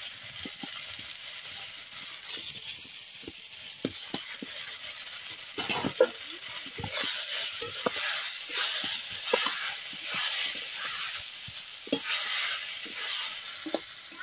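Snail and brinjal curry frying and sizzling in a metal wok as a metal spatula stirs and scrapes through it. The stirring gets louder about six seconds in, with short scraping strokes and clicks of the spatula against the pan.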